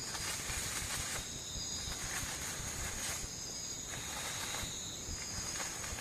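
Night insect chorus in the rainforest: several steady high-pitched trills, with a rasping chorus that swells and fades about every two seconds.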